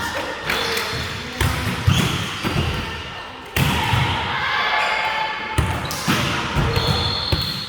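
Volleyball rally in a gym: irregular sharp thumps of the ball being hit and landing, with players' short calls, all echoing in the hall.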